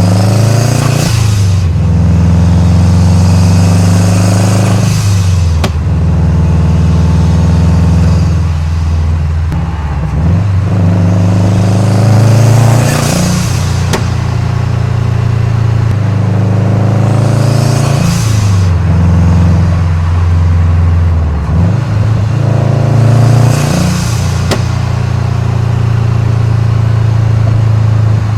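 2013 Subaru WRX's turbocharged 2.5-litre flat-four engine and exhaust under hard acceleration, climbing in pitch through each gear and falling back at every shift. A short turbo hiss sounds at each of the shifts, about five times.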